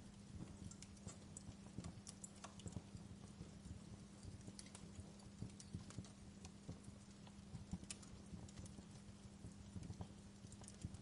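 Wood fire crackling in a fireplace: faint, irregular pops and snaps, several a second at times, over a low steady hum.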